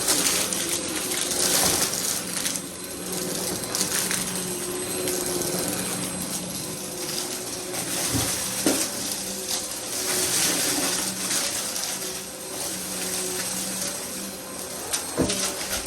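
Vacuum cleaner running with a steady motor hum and airflow rush, with scattered clicks and rattles as it is pushed about.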